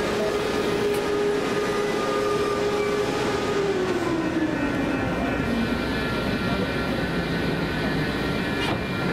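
Train running past with a continuous rumble and rail noise. A steady whine drops in pitch about three seconds in, settling lower a couple of seconds later.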